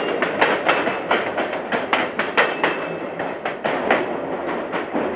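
Freight train cars rolling by, their steel wheels clacking and banging over the rail joints in a quick, uneven run of knocks over a steady rumble.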